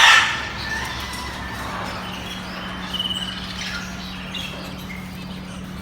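Caged pet-shop birds chirping and squawking, with one loud harsh squawk at the start and short scattered chirps and trills after it.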